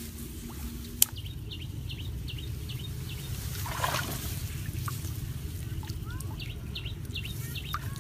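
Small bird chirping in two runs of short, high notes, over a steady low rumble. There is a single sharp click about a second in and a brief watery splash near the middle.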